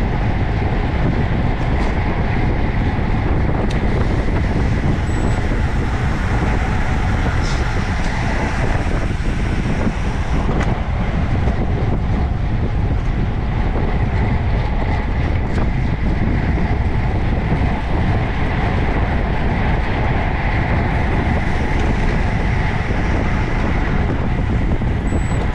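Steady wind rushing over the microphone of a bicycle-mounted camera, with tyre and road noise from a road bike riding at speed, and a few short clicks.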